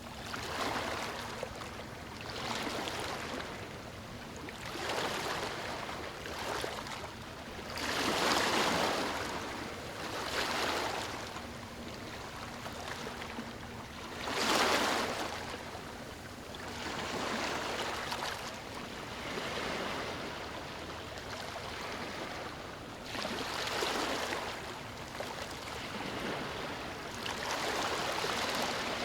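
Ocean waves breaking on a beach: a steady wash of surf that swells and falls every few seconds, with a few bigger waves breaking louder.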